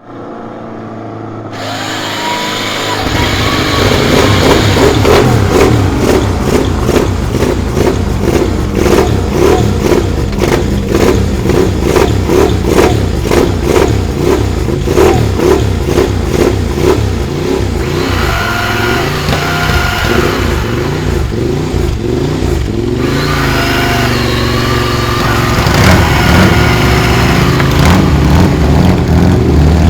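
Classic air-cooled racing motorcycle engine running and being revved. The throttle is blipped over and over, about twice a second. Later it is held at steadier revs that rise and fall in pitch.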